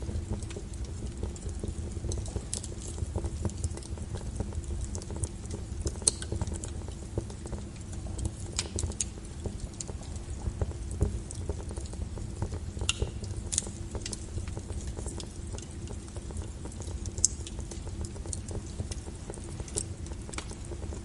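Wood logs burning in a fireplace: a steady low rumble with scattered, irregular crackles and a few louder pops.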